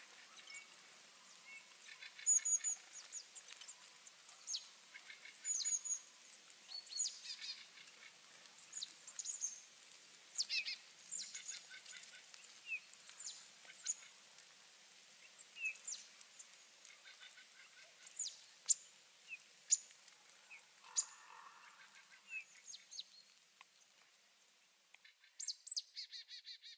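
Small birds chirping: many short, sharp high calls scattered one after another, with a quick run of calls near the end.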